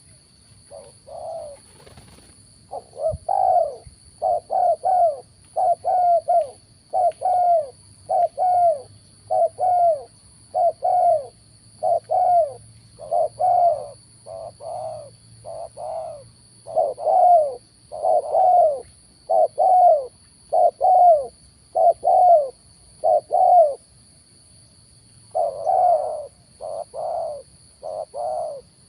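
Spotted dove cooing over and over, short coos coming about two a second in long runs, with a brief pause near the end.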